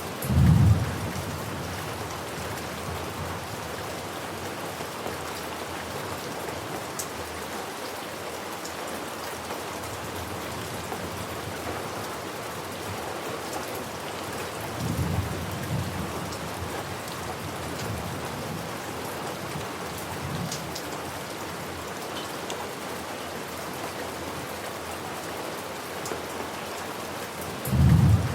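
Steady rain with low rumbles of thunder: a loud rumble just after the start, a softer double rumble about halfway through, and another loud rumble near the end.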